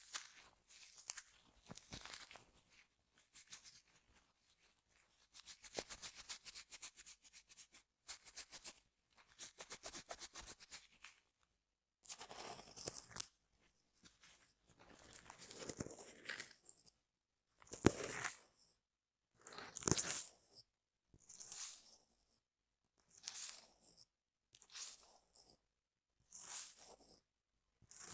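Small handheld items scraped and brushed across a microphone's grille, close up. For about the first twelve seconds it is rapid fine ticking scrapes; after that come separate scraping strokes of about a second each, roughly every second and a half.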